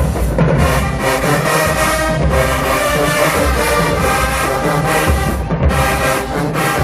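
HBCU marching band playing loud sustained brass chords over bass drum, with a brief break in the chords near the end.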